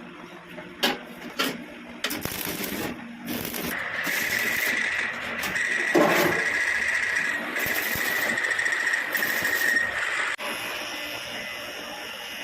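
Metalworking power tool running steadily with a high whine, starting about four seconds in and stopping near ten seconds.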